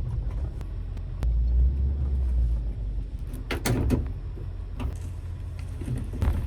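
Vehicle driving, heard as a steady low road and engine rumble that swells for about a second early on, with a few short rattles and knocks about three and a half seconds in and again near the end.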